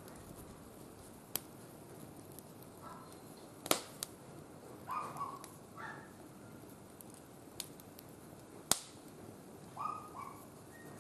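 Wood fire crackling in a barbecue grill, with about five sharp pops over a low steady hiss. Three short pitched calls sound about five, six and ten seconds in.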